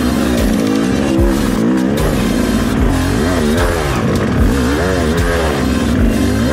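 Rieju MR300 two-stroke dirt bike engine revving up and down repeatedly under changing throttle, its pitch rising and falling about once a second while riding over rough off-road ground.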